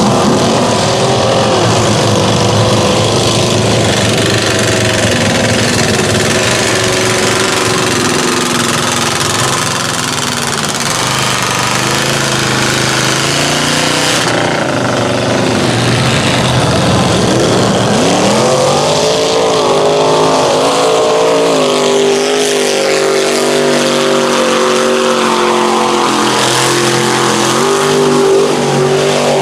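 Engines of lifted mud trucks racing down a drag strip, revving hard with the pitch repeatedly climbing and dropping as they launch and accelerate.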